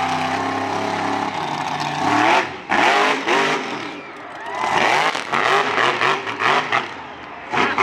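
Monster truck engine held at steady revs, then from about a second and a half in revved up and down again and again in quick rises and falls.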